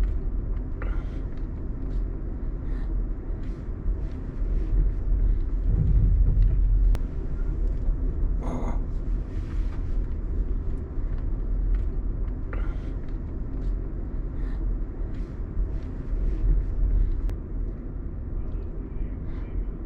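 Steady low rumble of the moving California Zephyr passenger train, with scattered light clicks and knocks.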